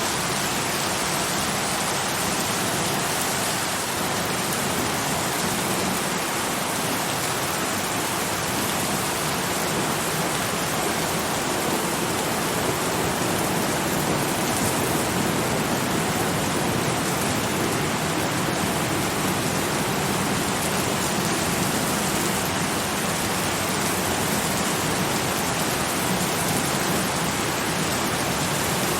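Steady, heavy rain falling, an even hiss of dense drops that keeps one level throughout.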